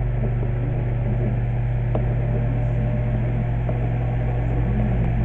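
Vintage Hunter table fan running on its medium speed: a steady low motor hum under the even rush of air from the blades.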